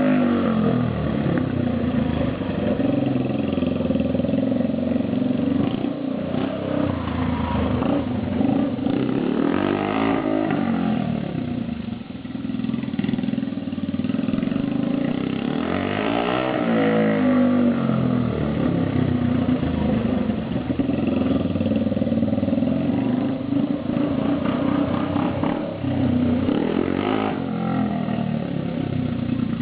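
Yamaha XT 125R single-cylinder four-stroke engine running without an exhaust, only a short square tube on the port, so it sounds open and unmuffled. It idles and is revved up and allowed to drop back about four times, the biggest rev around the middle.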